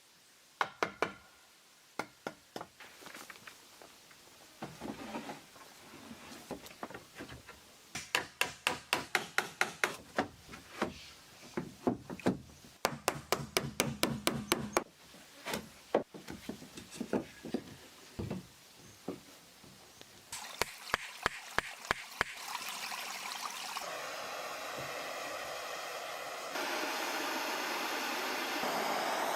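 Hammer blows on wood in quick runs of several strikes a second, with single knocks between, typical of nailing boards during timber building. Near the end a steady rushing noise takes over and gets louder.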